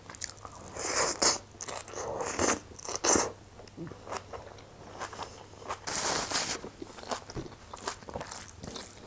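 Close-miked chewing of a mouthful of rice and choy sum greens with the hand-fed bite, in irregular crunches.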